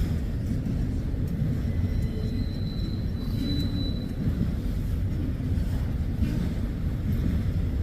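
Freight train rolling past: steady low rumble of railcars on the track, with a faint high wheel squeal from about two to four seconds in.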